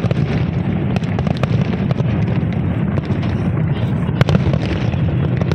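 Fireworks display bursting: scattered sharp bangs, a few close together about a second in and a pair near the end, over a steady low rumble.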